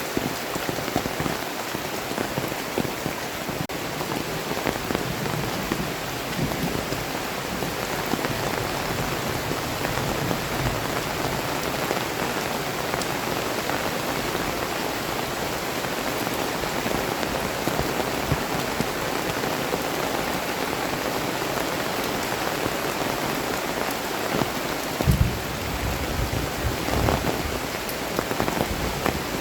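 Heavy rain pouring steadily, hissing on the ground and surfaces around, with a short low rumble near the end.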